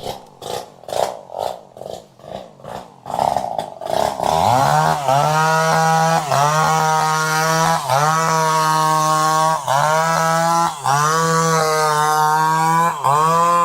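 A two-stroke chainsaw engine throbs unevenly, about two pulses a second, for the first few seconds. Around four seconds in it catches and runs at high speed, a steady high engine note that briefly dips in pitch and picks up again every second or two.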